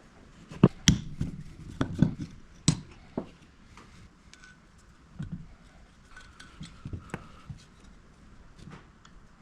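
Irregular clinks and knocks of small hard parts and hand tools being handled, loudest and most frequent in the first three seconds, then lighter, sparser ticks.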